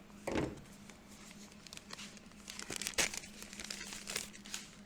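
Crinkling and rustling of sticker backing paper being handled and peeled, with a dull thump near the start and a sharp click about three seconds in, over a faint steady hum.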